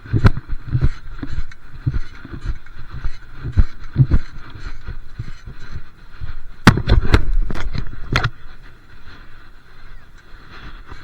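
Wind buffeting the microphone during a bicycle ride, with a run of sharp knocks and rattles about two-thirds of the way through.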